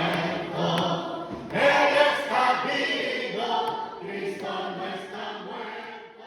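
A group of voices singing together, fading out near the end.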